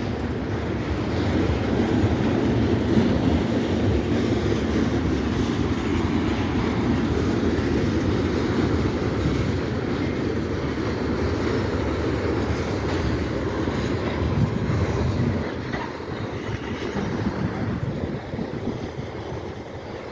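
Norfolk Southern freight train's cars rolling steadily past, a continuous rail noise that eases a little about three-quarters of the way through.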